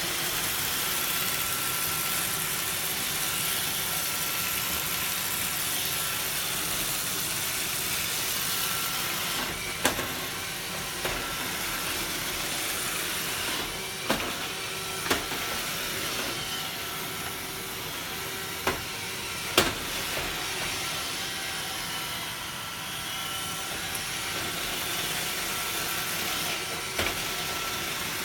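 iRobot Roomba 770 robot vacuum running steadily, its motors and brushes whirring, with several sharp knocks scattered through, typical of its bumper striking obstacles.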